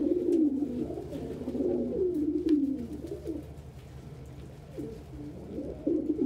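Domestic pigeons cooing, several low, wavering coos overlapping, easing off in the middle and picking up again near the end.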